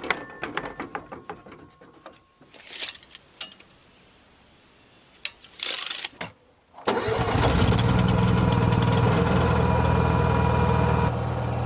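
Scattered knocks and clicks of wood and tools being handled. About seven seconds in, an electric saw motor starts abruptly and runs steadily, dropping slightly in level near the end.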